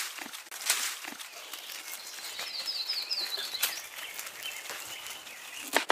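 A bird sings a quick run of about five short, falling chirps in the middle, over outdoor background noise. A few sharp knocks and rustles from handling are scattered through it.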